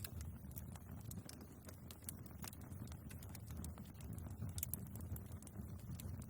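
Wood fire burning in a fireplace: a steady low rumble of flames with irregular crackles and pops from the logs, several a second.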